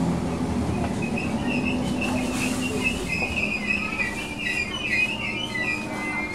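Class 313 electric multiple unit slowing to a stop at a platform, heard from inside the carriage. Its low running hum fades about halfway through, while a high squeal from the braking wheels sets in about a second and a half in and carries on almost to the end.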